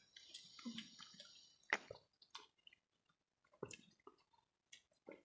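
Faint eating sounds at a meal: scattered small clicks and mouth and plate noises, the sharpest click about two seconds in and another near four seconds.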